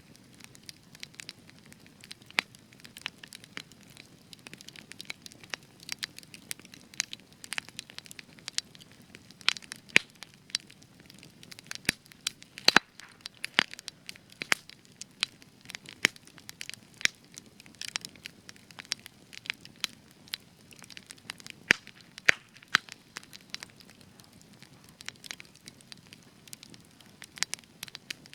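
Spruce logs burning in a campfire, crackling and popping in quick, irregular snaps over a soft low rumble of flame.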